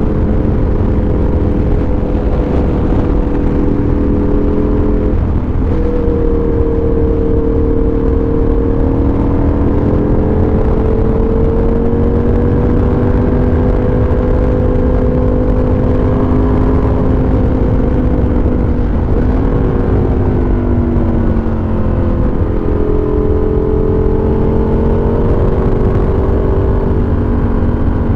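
2008 Aprilia RSV Tuono Factory's V-twin engine under way through its dual GPR exhausts. The engine note rises and falls with the throttle and dips sharply about five seconds in and again around twenty seconds in. Heavy low wind rumble comes through because the microphone sits inside the rider's jacket pocket.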